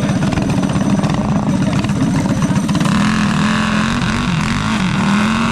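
Mini bike engine running steadily close by, its pitch wavering and rising slightly about halfway through.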